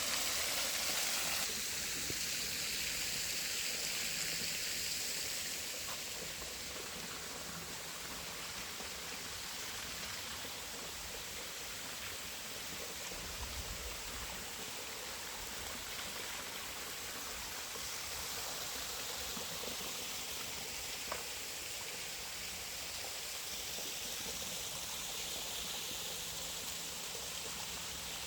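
Creek water running over a small waterfall cascade, a steady rushing, a little softer after the first few seconds.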